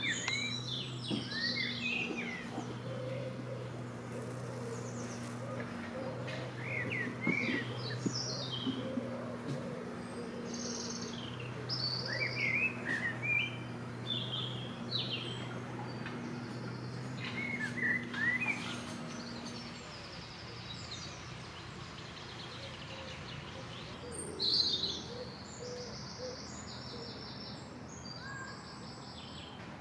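Several songbirds singing and calling, with short chirps and trills, the loudest burst about twenty-four seconds in. A low hum sounds on and off through the first twenty seconds.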